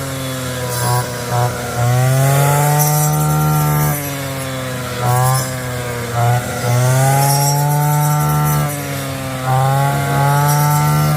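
A small engine revving up in repeated bursts of about one to two seconds, dropping back to a lower running note between them. The pitch bends slightly within each burst, as if under load.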